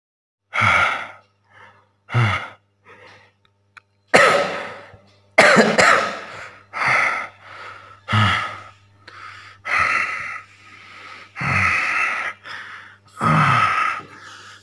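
A person coughing over and over in a long fit, about a dozen harsh coughs and gasps roughly a second apart, over a low steady hum.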